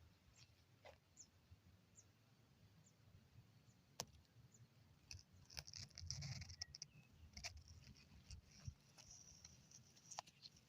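Near silence: faint outdoor ambience with scattered small clicks and one sharper tick about four seconds in.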